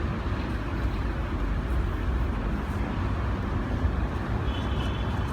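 Strong sandstorm wind blowing against the microphone: a steady rushing noise, heaviest in the low end.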